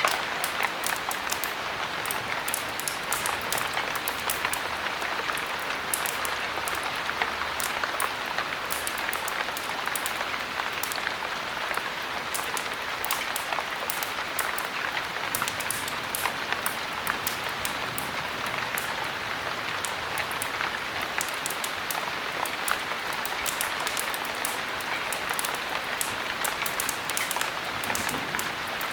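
Heavy rain falling steadily in an even hiss, with many small sharp ticks and crackles scattered over it.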